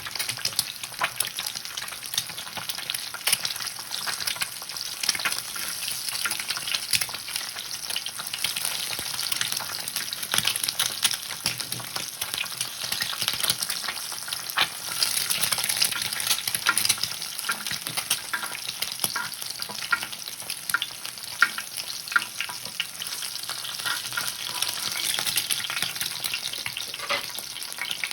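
Food frying in a pan: a steady sizzle with many small sharp clicks throughout.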